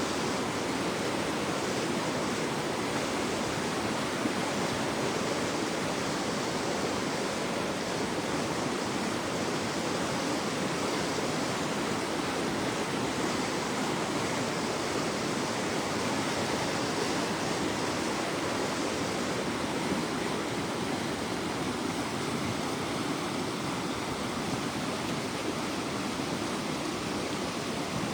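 River in flash flood, swollen by thunderstorm rain: the floodwater rushing with a steady, unbroken noise.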